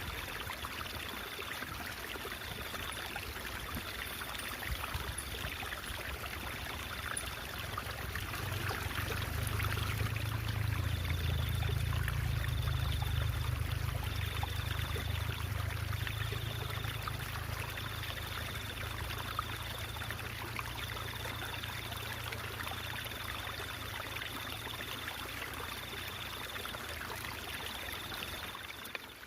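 Stream water babbling and trickling steadily, with a low rumble that swells for a few seconds in the middle and a faint high tone pulsing about once a second.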